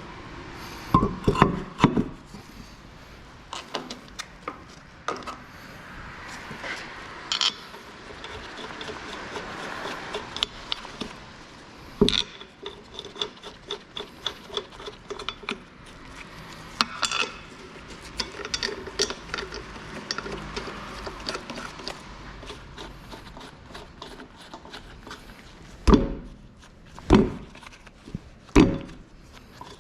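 Hands-on work on a car's front disc brake: metal parts and tools clinking and knocking, with a stretch of rubbing and scraping partway through and a few heavier thumps near the end.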